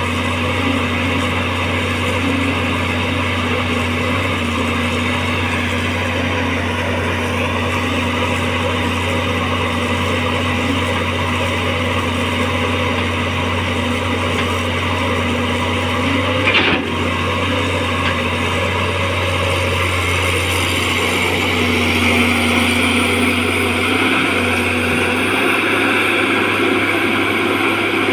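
Caterpillar excavator's diesel engine running steadily under load while the bogged machine works to move out of deep mud, with one sharp knock about two-thirds of the way through.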